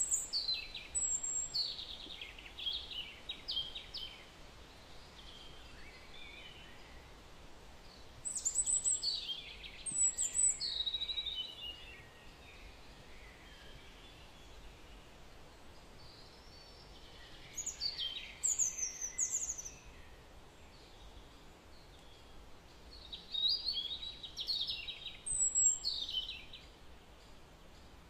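A songbird singing in short bursts of high chirps and falling whistles, four phrases several seconds apart, over faint steady background noise.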